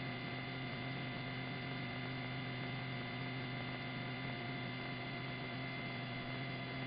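Steady electrical hum with a few faint steady high tones and light hiss, unchanging throughout: the background of the police helicopter's radio and intercom audio between transmissions.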